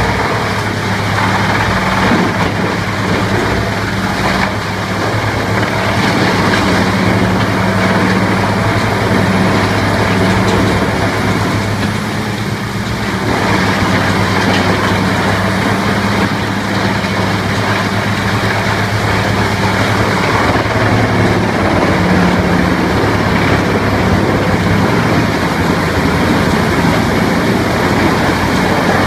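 A heavy engine running steadily with a constant low drone under dense mechanical noise, which eases briefly about twelve seconds in.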